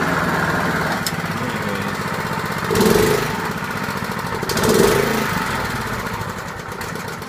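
Honda walk-behind lawn mower engine running steadily, with two brief louder surges about three and five seconds in.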